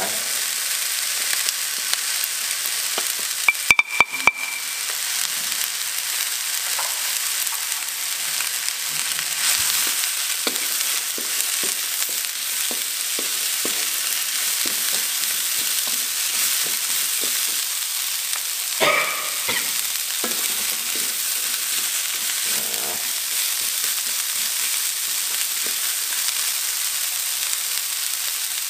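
Baby corn sizzling in hot oil in a wok as it is stir-fried with chillies, shallots and garlic, a wooden spatula scraping and tossing it in short strokes. A few sharp clicks about four seconds in, and a single knock with a brief ring about two-thirds of the way through.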